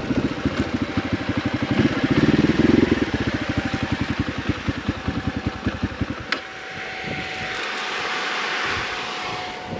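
Motorcycle engine running at low revs with a fast, even pulse, then cut off suddenly with a click about six seconds in, leaving a soft rushing noise.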